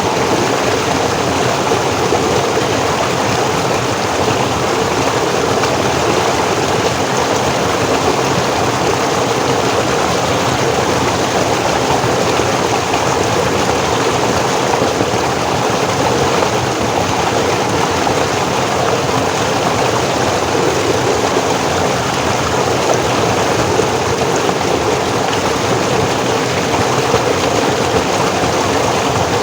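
Forest stream flowing in a steady, unbroken rush of water.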